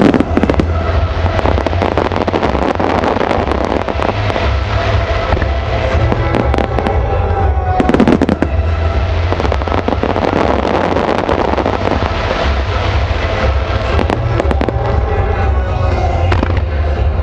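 Fireworks display: aerial shells bursting and dense crackling stars popping without pause, with heavier booms at the start and about eight seconds in. Music of the synchronized show plays underneath.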